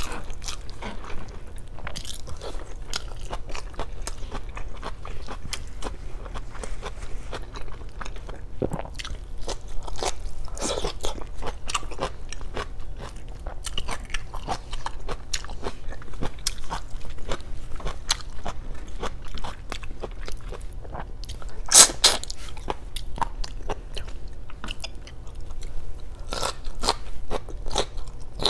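Close-miked eating sounds: wet chewing and crunching of adobo, rice and blanched green vegetable stems eaten by hand. There are many small clicks and crunches, with one sharper, louder crunch about three quarters of the way through.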